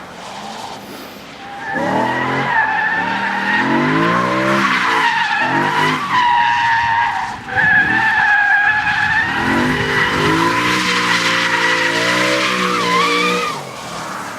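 BMW E92 drifting: its tyres squeal steadily from shortly after the start to near the end, while the engine revs rise and fall under the throttle in two long stretches.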